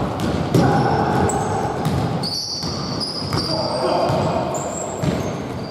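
Basketball game on an indoor court: the ball bouncing and sneakers squeaking in short high chirps on the floor, with players' voices echoing in a large hall.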